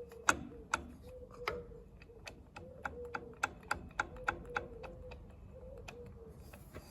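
Small metal parts of a Zetor 440 diesel injection pump being worked by hand, giving sharp, irregular metallic clicks and taps about two or three times a second over a faint steady hum. A seized pump element is being freed and stops at the top of its travel.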